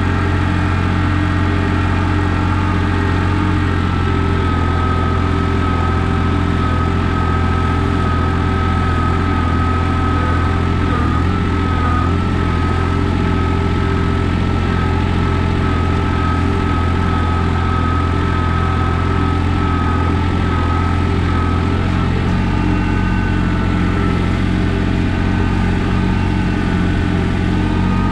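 John Deere 855 compact tractor's three-cylinder diesel engine running steadily at an even speed, with a thin high whine held over the engine note.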